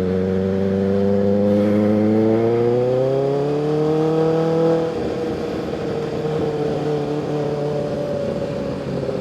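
Kawasaki ZX-6R 636 inline-four engine pulling in gear, its pitch rising steadily for about five seconds. Then the throttle eases off and it runs on more quietly at a steady pitch.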